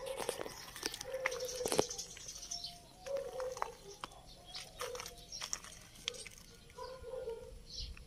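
Birds calling in the background: short low notes repeating every second or so, with a few higher notes, over a faint high hiss and scattered sharp clicks.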